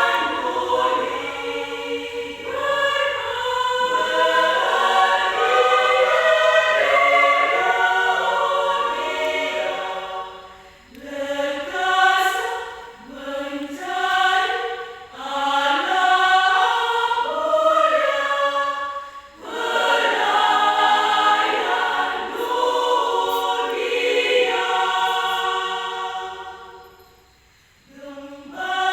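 Adult women's choir singing, with brief breaks between phrases about eleven and nineteen seconds in and a pause near the end.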